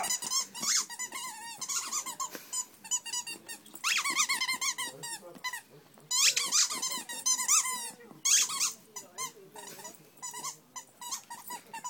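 Dachshund chewing a squeaky toy, setting off bursts of rapid, wavering squeaks again and again with short pauses between, and the dog growling low in between.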